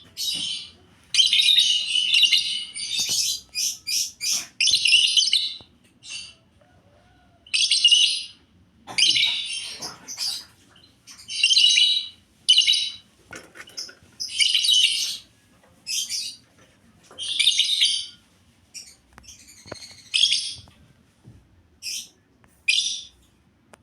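Pet lovebirds chirping in short, high-pitched chattering bursts, one every second or two.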